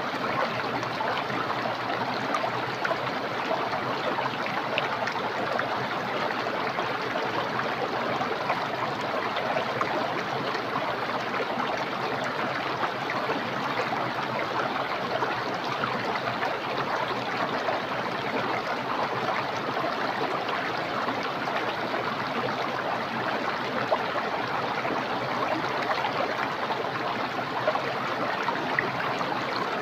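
Small, clear, fast-flowing stream rushing and babbling over stones, steady and continuous, with small splashy flickers throughout.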